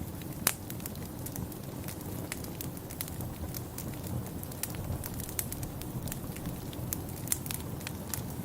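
Wood fire in a fireplace crackling, with irregular sharp pops, the loudest about half a second in, over a steady low rush.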